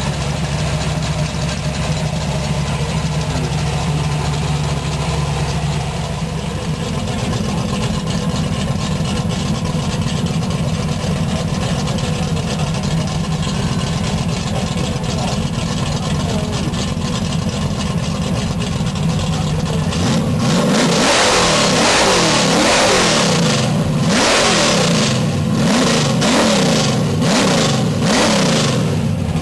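1969 Plymouth Road Runner's 440 Six Pack big-block V8 idling steadily, then revved hard about six times in quick succession near the end, each rev rising and falling in pitch.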